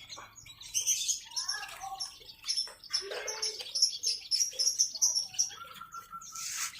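Many caged small songbirds chirping and twittering together, a dense run of short high calls overlapping, with a held whistled note near the end.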